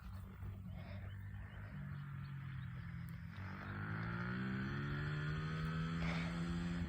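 SSR 110 pit bike's single-cylinder four-stroke engine running at low revs, then revving up, its pitch climbing steadily from about halfway through as the bike accelerates before it levels off near the end.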